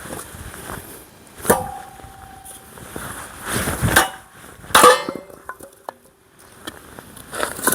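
Metal striking during log splitting with an axe and a nadae hatchet: three sharp blows, about a second and a half in, at four seconds and just under five seconds. The first and last blows leave a short metallic ring.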